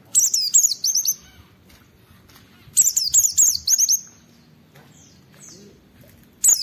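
White-eye (pleci) in full song: two bursts of rapid, high, slurred falling notes, each about a second long, the second starting about three seconds in, with a few faint short notes between.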